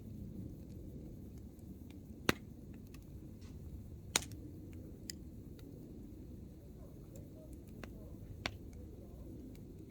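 Open campfire of hardwood firewood burning with a low, steady rumble and sharp crackling pops as the logs burst. The loudest pop comes about two seconds in, with others around four, five and eight and a half seconds.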